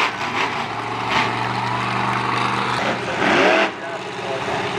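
Monster truck engines running hard during a race, a steady drone that surges with a louder burst and a gliding rev about three seconds in.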